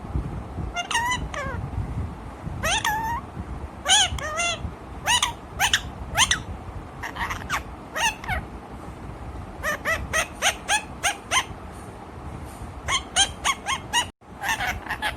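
A pet parrot calling: a long series of short, pitched calls that rise and fall, some coming in quick runs.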